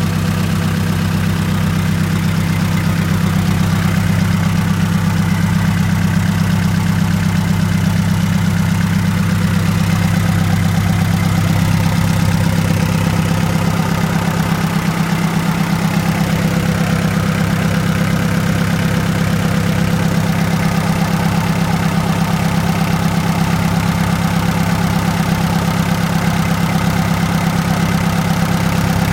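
Hyundai D4BB 2.6-litre four-cylinder diesel engine idling steadily, running for an oil-pressure check.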